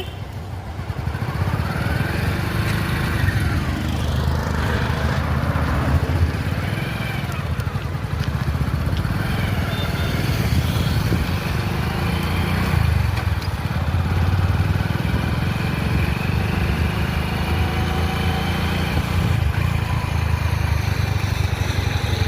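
Motorcycle engine running while riding, a steady low rumble that rises and falls a little in pitch.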